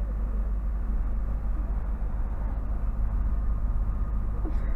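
Steady, loud low engine rumble with a faint steady whine above it.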